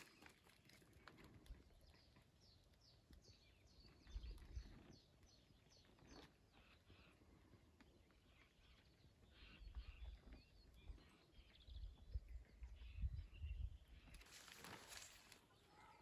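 Faint small birds chirping outdoors, a long run of short, high, falling notes, with a few soft low rumbles in between.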